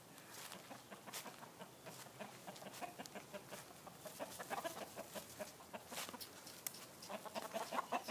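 Chickens clucking softly: a run of short, quick clucks that grows busier in the second half, with a few faint sharp clicks among them.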